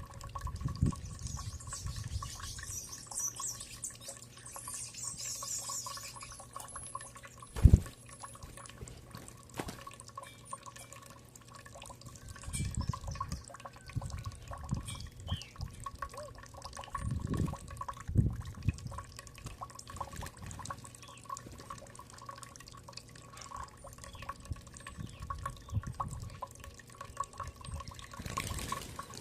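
Dripping, trickling water with scattered soft low thumps and one sharp knock about eight seconds in; faint high bird chirps in the first few seconds.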